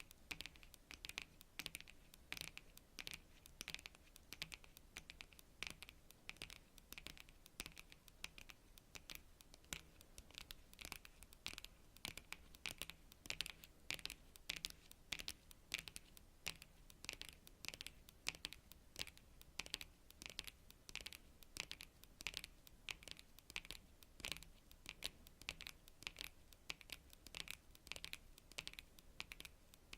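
Long natural fingernails tapping on cards: a rapid, irregular run of light, crisp clicks, several a second.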